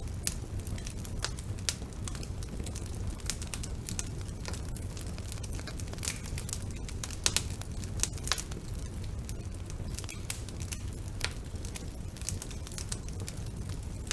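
Wood fire burning in a fireplace: irregular crackles and sharp pops from the burning logs over a steady low rumble of the flames, with a few louder pops about halfway through.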